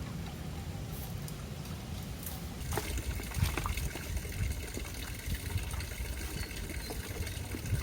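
River water trickling and flowing steadily, with a few light clicks and knocks from about three seconds in.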